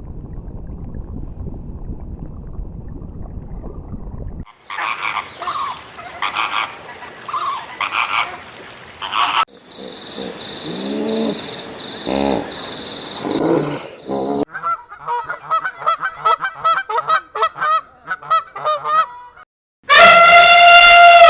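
A run of different animal calls cut one after another. A low rumbling noise comes first. About four seconds in, a series of calls begins; then a steady high-pitched whine sounds over lower sliding calls, then a fast string of repeated calls, and a loud honking call comes near the end.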